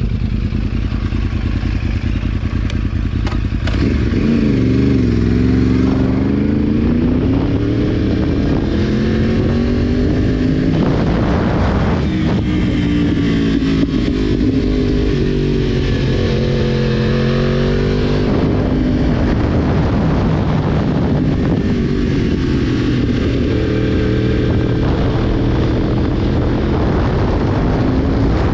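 Yamaha sport motorcycle engine running under way, its pitch climbing and falling again several times as the bike accelerates and eases off.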